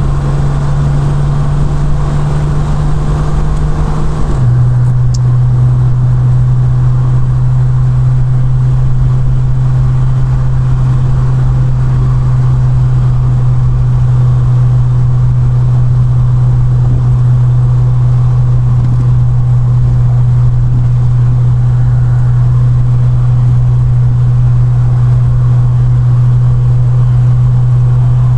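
1971 Triumph Vitesse Mk2's 2-litre straight-six engine running steadily under way at speed, heard from the open car with wind and road noise. The engine note steps slightly lower about four seconds in, then holds steady.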